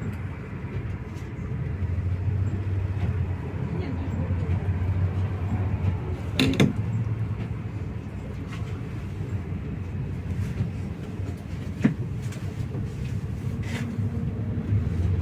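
Inside a MAZ-215 articulated city bus under way: a steady low engine and road drone, with a sharp knock about six seconds in and another around twelve seconds.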